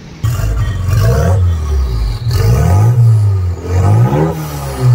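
DC Avanti's 2.0-litre Renault engine and exhaust being revved in three blips, the engine pitch climbing and dropping back with each one.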